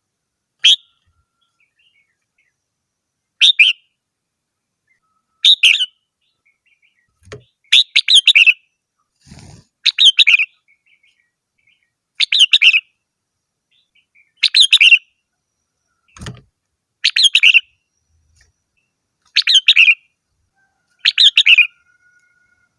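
Red-whiskered bulbul singing: about ten short warbled phrases, one roughly every two seconds, with silence between them. A few faint low thuds fall between the phrases.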